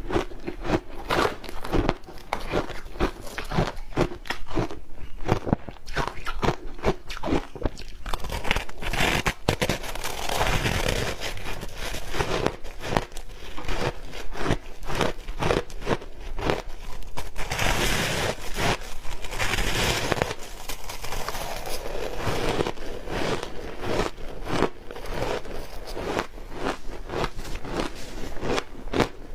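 Ice coated in matcha green tea powder being bitten and chewed: rapid, irregular crunching and cracking, thickening into longer stretches of continuous crunching about ten and eighteen seconds in.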